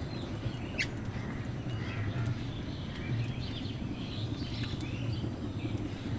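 A flock of birds calling, with many short high chirps and calls overlapping throughout. A sharp high chirp stands out about a second in, over a steady low rumble.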